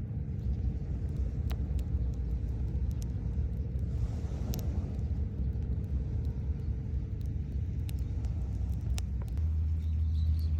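Wood fire burning in a makeshift aluminium fire pit, with scattered sharp crackles and pops over a steady low rumble that grows slightly stronger near the end.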